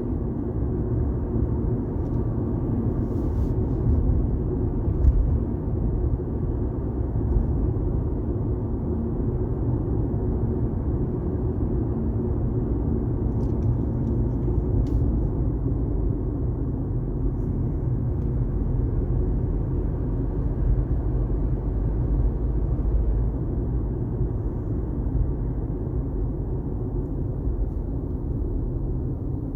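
Steady low rumble of a car driving on the highway, engine and tyre noise with no change in pace.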